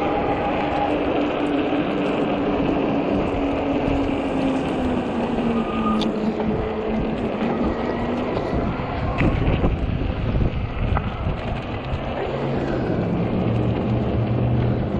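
Wind rushing over the microphone of a moving e-bike, with a low hum underneath that slowly drops in pitch over the first several seconds and a deeper hum near the end.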